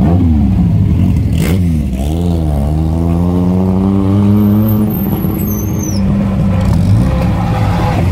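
Several rally car engines running in a slow queue, loud and rough, with throttle blips near the start and about two seconds in, then a slow rising engine pitch as a car pulls forward.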